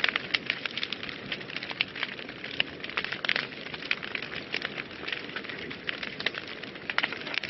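Wood fire burning in a fireplace: a steady low rush of flames with irregular sharp crackles and pops throughout.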